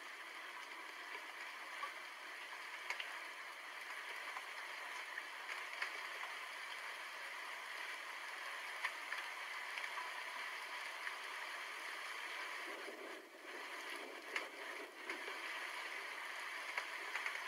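Steady rain, an even hiss with scattered sharp drop ticks, briefly dipping about three-quarters of the way through; no thunder rumble.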